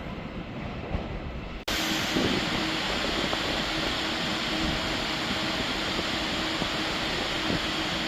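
Electric passenger train running at a station, a steady rumbling rush of noise. About two seconds in the sound cuts off abruptly and picks up again louder, with a steady hum held over the noise.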